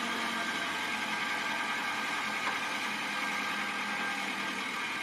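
Car engine running steadily with road noise, with no impacts or sudden events.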